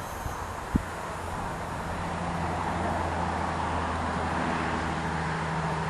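Strong wind rushing over the microphone, with a low steady mechanical hum coming in about a second in and a single knock just before it.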